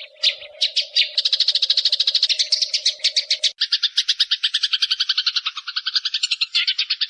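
Songbird chattering in rapid, evenly repeated sharp chirps, about ten a second, that switch abruptly about halfway through to a lower, faster trill. A steady low hum runs under the first half.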